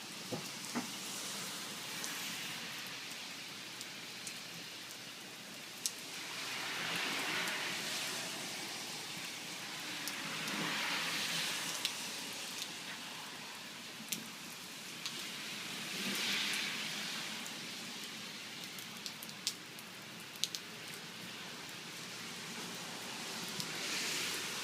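Heavy rain pouring down steadily, swelling and easing in waves every few seconds, with scattered sharp ticks of drops striking something close by.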